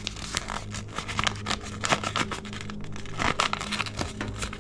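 Irregular scraping and clicking of sugar lumps being handled in a bowl, over a low steady hum.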